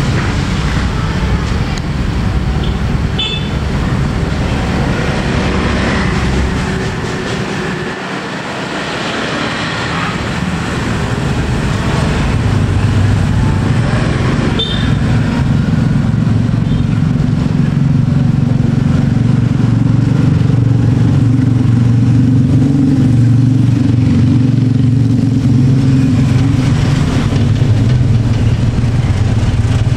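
A container freight train rolls slowly past, its wagons clattering and its wheels giving a few brief squeals. About halfway through, the steady low hum of an approaching diesel locomotive's engine builds and takes over.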